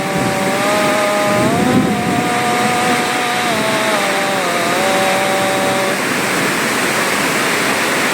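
A small engine running with a wavering pitch over a steady rushing noise; the engine note stops about six seconds in.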